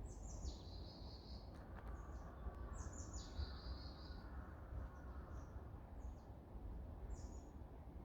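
Wild songbirds singing. There are two song phrases, one at the start and one about three seconds in, each a few quick high descending notes running into a trill of about a second. Shorter single calls follow in the second half, over a steady low rumble.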